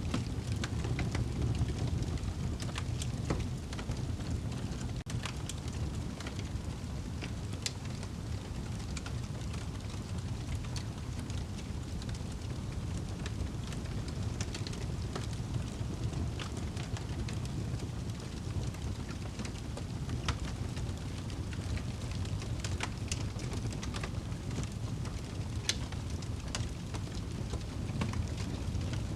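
Fire crackling in a fireplace: scattered sharp pops and snaps over a steady low rumble of the flames.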